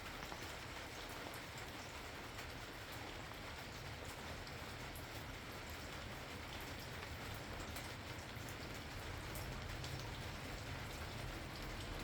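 Steady rain falling, many small drops ticking on a surface, over a low rumble that grows a little stronger near the end.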